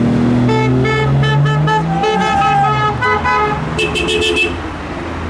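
Car engine note rising as it revs, with a car horn tooted in a rapid string of short beeps over it, then a higher-pitched horn sounding in quick pulses near the end.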